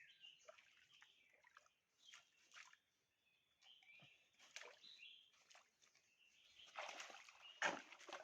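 Faint, scattered bird chirps, with a few soft water splashes from about six and a half seconds in.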